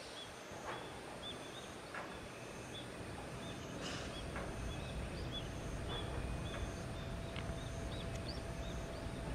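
Quiet outdoor ambience with a small bird giving short, high chirps again and again at an uneven pace, over a low rumble that grows louder after the first few seconds.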